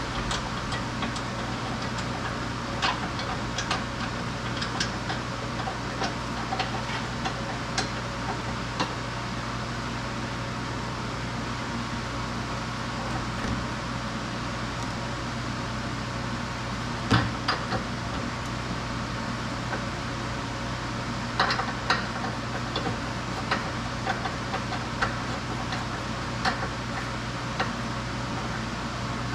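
Scattered light clicks and knocks of metal hand tools over a steady low hum, louder clinks about halfway through and again a few seconds later.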